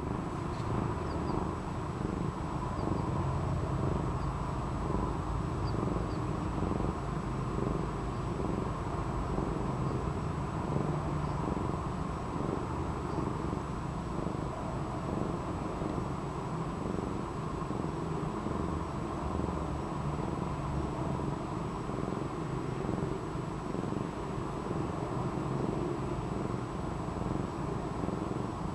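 Domestic cat purring steadily and continuously.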